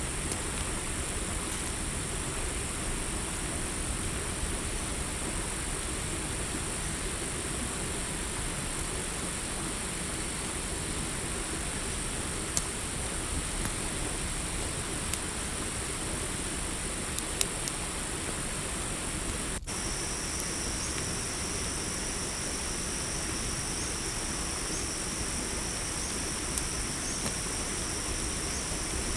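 Campfire crackling, with a few sharper pops, over crickets chirping steadily and high. About two-thirds of the way through, a second, lower insect trill joins in.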